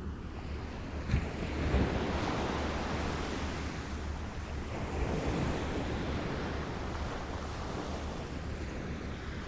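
Small waves lapping, a continuous wash of water that swells about a second in and again around five seconds.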